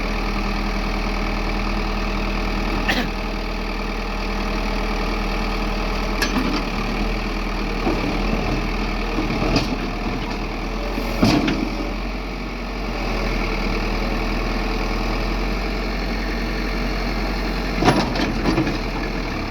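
Backhoe loader's diesel engine running steadily at low speed, with a few sharp knocks or clanks spread through.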